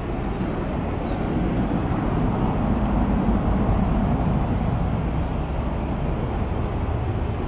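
Boeing 737-700 jet engines (CFM56-7B turbofans) running at high power on departure, a broad rumble that swells to its loudest about three seconds in and then eases off.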